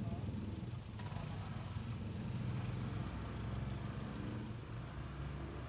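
Honda ADV 150 scooter's single-cylinder engine running steadily under way, a low even hum with road noise.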